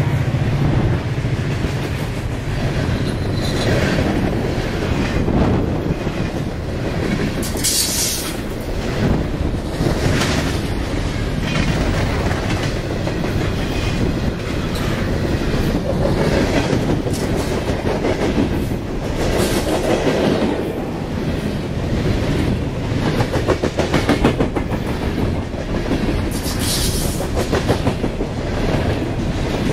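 Train cars rolling past at close range, wheels clicking rhythmically over rail joints, with two short high-pitched screeches, about eight seconds in and near the end.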